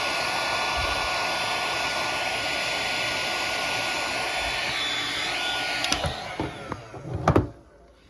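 Electric heat gun blowing steadily on heat-shrink tubing. It is switched off about six seconds in and spins down with a falling whine, followed by a few knocks, the loudest about seven seconds in.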